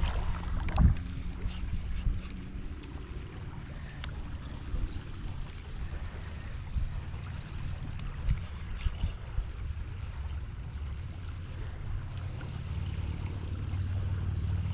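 Sounds of a fishing kayak on a river: light water noise and a few sharp knocks against the hull, the two loudest in the first second, with scattered light clicks over a steady low rumble.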